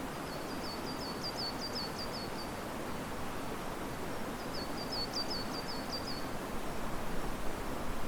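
Steady rush of river water and wind in riverside trees, growing a little louder near the end. A small bird sings twice over it, each time a quick run of about ten high repeated notes, once near the start and once about midway.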